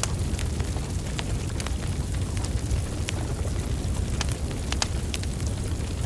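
Wood fire burning: a steady low rush of flames with scattered sharp crackles and pops from the burning logs.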